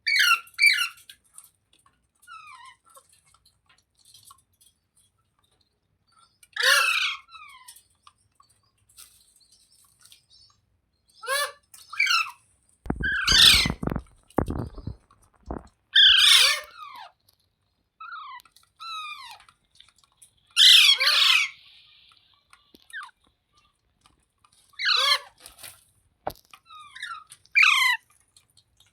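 Rose-ringed parakeet (green Indian ringneck parrot) giving loud, shrill squawking calls with sharp up-and-down pitch sweeps, one short burst every few seconds. A brief run of low knocks sounds about halfway through.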